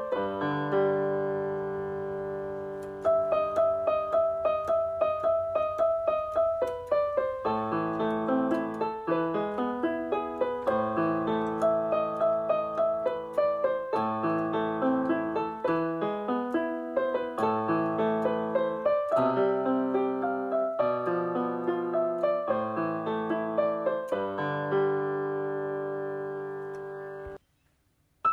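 Background piano music: a gentle melody of struck notes over sustained chords in a steady rhythm, which cuts off abruptly near the end.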